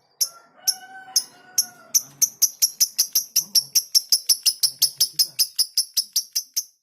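A lovebird's rapid chattering call: a run of sharp, high chirps that speeds up from about two a second to about five a second, then stops abruptly near the end.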